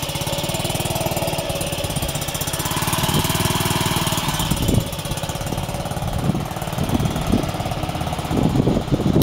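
Honda Ruckus scooter's 49 cc single-cylinder four-stroke engine running at a steady idle through an NR Magic aftermarket exhaust, a little louder than stock. Several dull thumps come in the second half.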